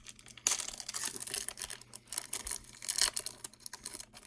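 A hockey card pack's wrapper being torn open and crinkled: a run of irregular crackling rustles.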